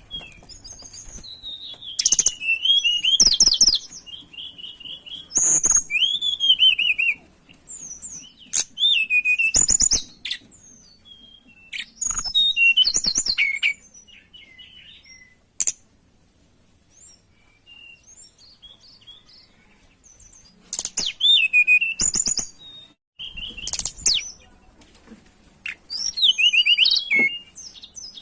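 Tledekan gunung singing loud bouts of rapid whistled warbles and trills, each a second or two long, separated by short pauses, with a longer lull in the middle.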